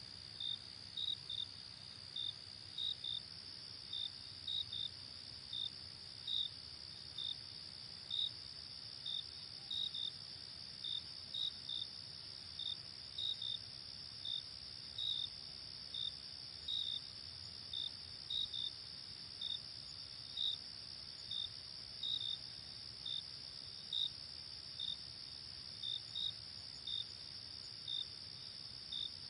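Night chorus of crickets: a steady high-pitched trill, with short cricket chirps repeating unevenly about twice a second over it.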